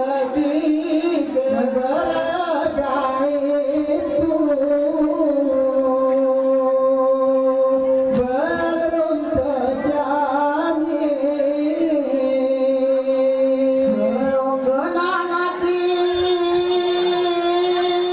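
Group of men singing a Saman chant in unison in high voices, long held notes that step up and down in pitch, with a few soft thumps underneath.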